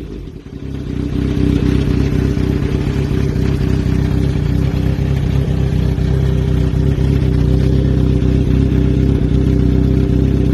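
Kawasaki Z900RS inline-four engine idling steadily through a HOONK custom stainless-steel exhaust, settling into idle in the first second after a rev dies away.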